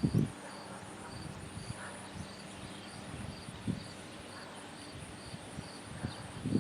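Insects chirping outdoors, a short high chirp repeating about twice a second over a steady high trill, with one soft knock a little past halfway.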